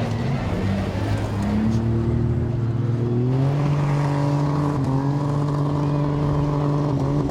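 Demolition derby car engine revving up over a couple of seconds, then held steady at high revs.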